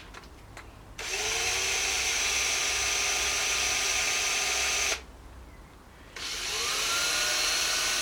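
Power drill run twice, about four seconds and then about two seconds, each time whining up to a steady speed. It is spinning the e-bike's rear axle to check whether the axle is bent.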